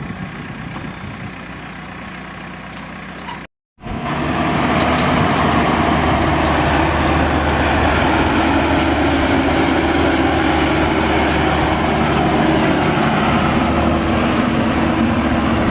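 Maxxi Bimo rice combine harvester's engine running steadily. It cuts out briefly about three and a half seconds in and comes back louder.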